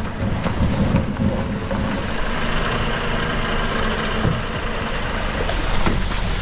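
Heavy truck engine running steadily under a dense, even hiss like rain or wet road noise.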